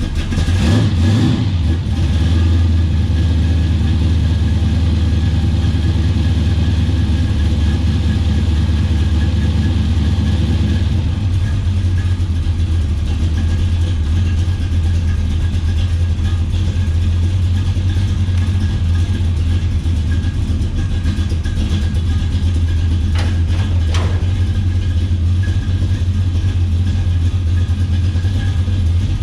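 A 460 big-block Ford V8 with a twin tunnel-ram intake and two Holley carburettors running at a steady, loud idle, with a short rev right at the start. A single sharp click sounds near the end.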